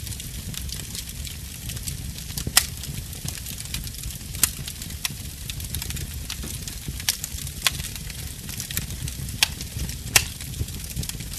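Wood fire burning in a fireplace: a steady low rumble and soft hiss of the flames, with sharp crackles and pops every second or so, the loudest about two and a half seconds in and again near the end.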